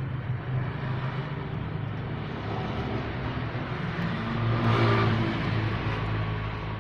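Motor vehicle engine running with a steady hum. A vehicle passes close by, loudest a little under five seconds in, then fades away.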